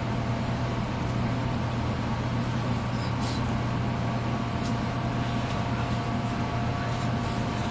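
Running noise heard inside a 300 series Shinkansen passenger car: a steady low rumble and rushing sound with a thin, even high whine over it.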